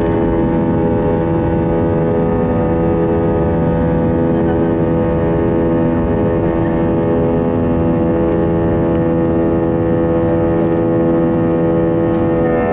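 Airbus A320 jet engines running at takeoff thrust: a loud, steady noise with a chord of steady whining tones over it.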